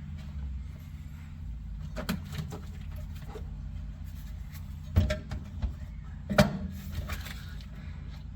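Scattered knocks and clunks of parts and tools being handled during work inside a vehicle's cab, with the two loudest about five and six and a half seconds in. A steady low hum runs underneath.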